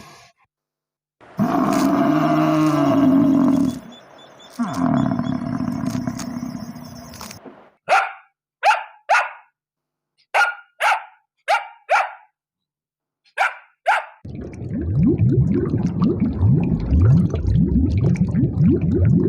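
Dog vocalising. A long throaty sound comes first, then a run of about nine short sharp barks, then a low rasping growl near the end.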